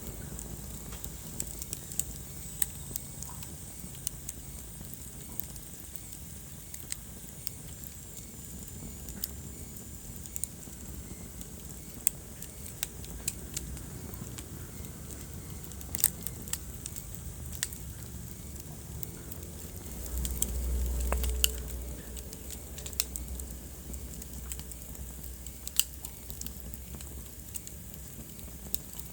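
Wood fire crackling in a fireplace: irregular sharp pops and snaps over a steady low rumble of flames. A louder low rush swells for about two seconds roughly two-thirds of the way through.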